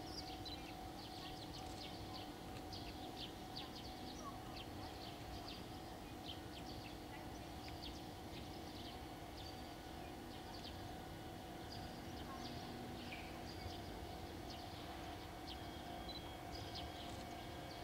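Small birds chirping over and over, over a faint steady hum.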